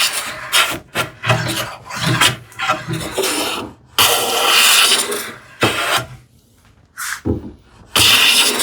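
Hand plane shaving across a wide wooden panel in about ten irregular, broken strokes, some short and some about a second long. The cut keeps starting and stopping because the plane catches only the high spots of a surface left undulating by a scrub plane; the shaving sound grows more continuous as the surface comes level.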